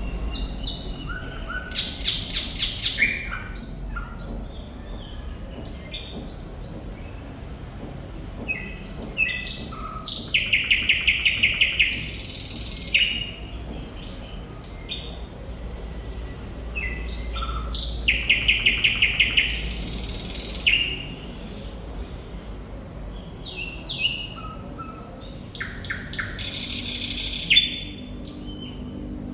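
Thrush nightingale singing in separate phrases of whistled notes, several of them with fast runs of rapidly repeated notes, with short pauses between phrases.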